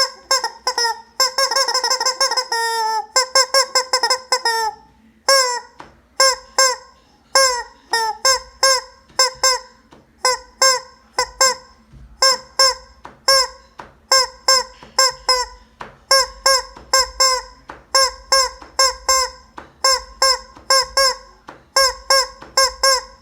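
Rubber squeeze chicken toy squeezed over and over, giving short honking squawks. They come close together and drawn out for the first few seconds, then settle into a steady run of about one and a half to two a second.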